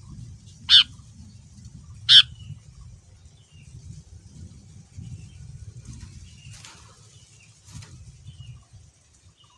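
Sooty-headed bulbul (kutilang) giving two loud, short, sharp call notes in the first few seconds, then fainter notes near the end, over a low rumble.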